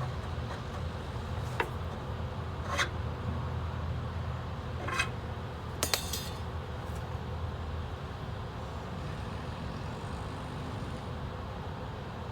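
A steady low engine rumble that drops away about eight seconds in, with four or five sharp metal clinks and clanks, the loudest about six seconds in.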